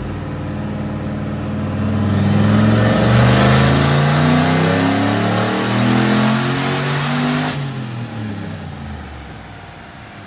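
Turbocharged OBS Ford truck engine making a full-throttle dyno pull through an open hood-dump exhaust. Revs climb from about two seconds in, with a rising turbo whistle and a loud rush. The throttle comes off suddenly a little past halfway, and the engine winds back down.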